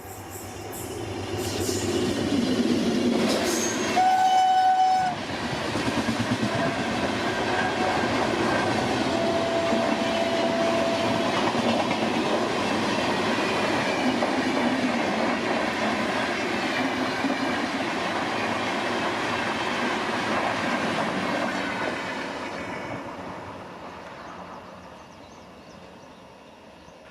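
Indian Railways express train hauled by an electric locomotive approaching and running past. A loud horn blast comes about four seconds in and a second, lower horn note follows around ten seconds in. Then the wheels clatter steadily as the coaches go by, fading away near the end.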